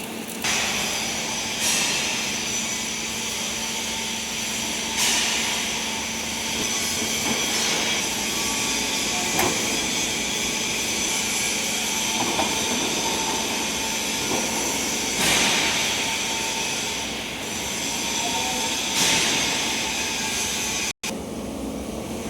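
Industrial machine running steadily with a low hum, and a short hiss every few seconds.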